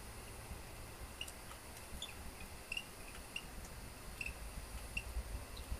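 Short high chirps from small birds, one or two about every second, over a low rumble.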